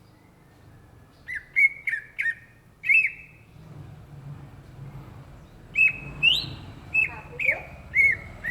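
Greater green leafbird (cucak ijo) singing: short, clear whistled notes in two quick runs of about five each, one note sliding up higher.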